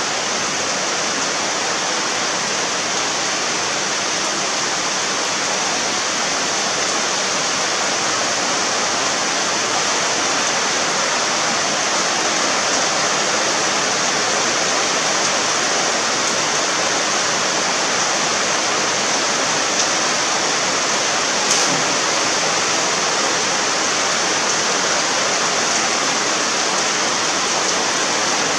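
Heavy rain falling steadily, a dense even hiss, with one brief tap about three-quarters of the way through.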